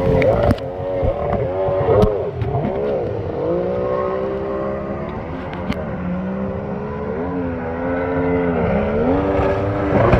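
Watercraft engine running on the water, its pitch rising and falling several times as the throttle is opened and eased off.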